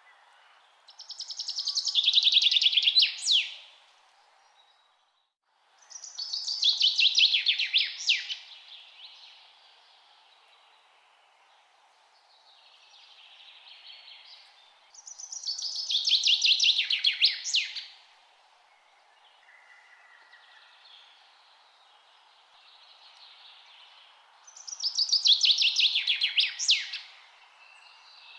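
A songbird singing the same song four times, about every nine seconds: each song is a fast, high trill lasting about two and a half seconds that ends in a quick flourish. Fainter calls from other birds come between the songs over a steady background hiss.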